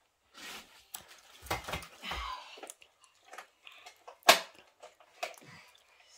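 Plastic parts of a Kinderkraft baby highchair being handled and fitted together: scattered clicks, knocks and rustling, with one sharp click about four seconds in.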